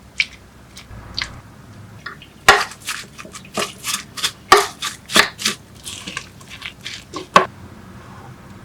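Kitchen utensils clattering: a dozen or so irregular sharp knocks and clinks, starting about two and a half seconds in after a few lighter clicks.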